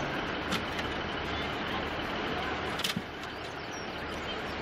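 A diesel passenger train pulling out of the station with a steady engine rumble and hiss, a low drone underneath, and two brief clicks. Faint bird chirps come through above it.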